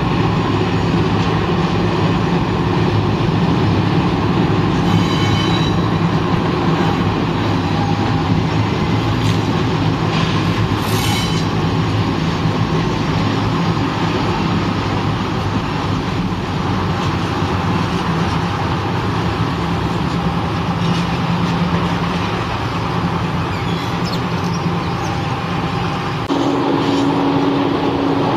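Passenger train rolling past on the tracks, a steady rumble with brief wheel squeals twice early on. About 26 seconds in the sound changes abruptly to another train passing, with a steady low hum.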